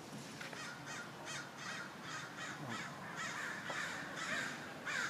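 A group of crows cawing repeatedly in short harsh calls, overlapping more thickly in the second half: alarm cawing, the crows raising a warning.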